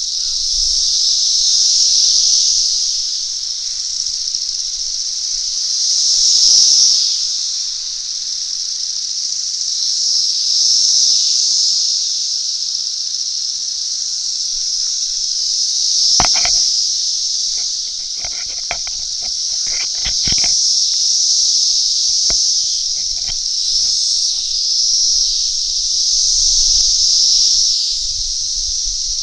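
A loud, continuous chorus of thousands of cicadas, a high, shrill drone that swells and fades every few seconds. A few short clicks sound near the middle.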